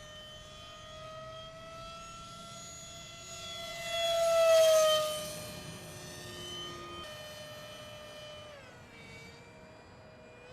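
The 50 mm electric ducted fan of a small RC F-86 Sabre jet whining in flight, a high tone with many overtones. It swells loudest as the jet passes close about four to five seconds in, the pitch falling as it goes by, and drops in pitch again near the end.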